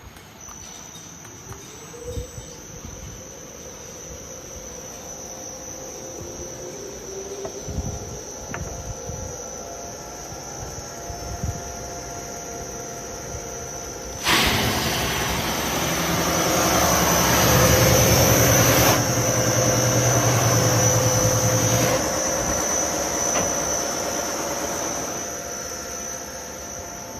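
Small electric sanding and polishing machine: its motor spins up with a rising whine about two seconds in, then runs with a steady high whine. About halfway through, a loud rasping lasts around eight seconds as the sanding wheel is worked against a piece, then the motor runs on alone.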